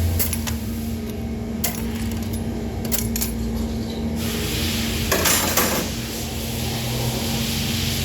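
Metal parts and tools clinking and clattering a few times over a steady low hum, with a brief hiss about five seconds in.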